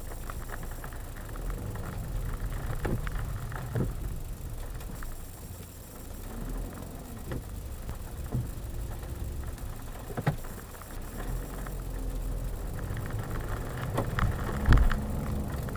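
A car driving, heard from inside the cabin through a dashcam's microphone: a steady low rumble of engine and road, with scattered clicks and knocks, a few louder ones near the end.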